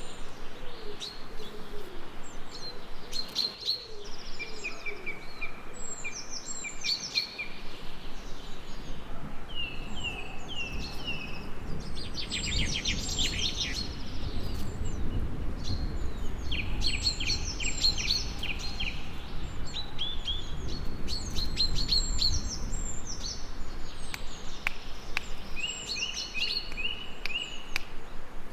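Mixed songbirds singing and calling, with repeated chirps and rapid trills. A low rumble swells up under them from about twelve seconds in and fades about ten seconds later.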